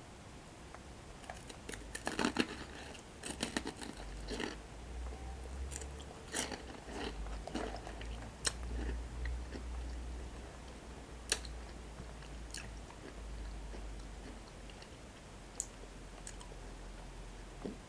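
Close-up crunching and chewing of toasted breadsticks coated in cocoa cream: a run of crisp bites and crackling chews in the first half, then sparser single sharp mouth clicks, over a faint low hum.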